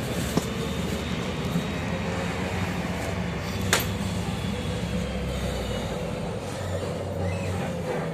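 Inside a MAZ-105 articulated city bus on the move: steady engine and road rumble. There is one sharp click about three and a half seconds in, and the deepest part of the rumble eases off near the end.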